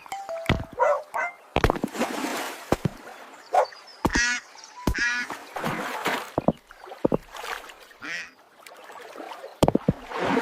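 Cartoon duck honking and quacking in short wavering calls, mixed with sharp clicks, knocks and short swishing sound effects.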